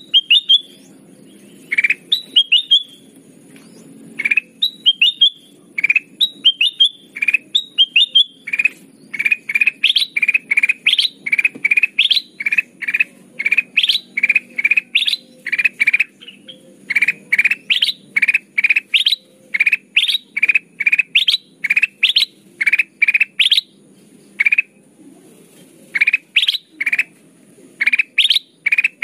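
Kutilang emas bulbul calling, a lure recording: short, sharp, bright chirps, first in little grouped phrases about once a second, then repeated rapidly about three a second with a couple of brief pauses. A faint low hum lies underneath.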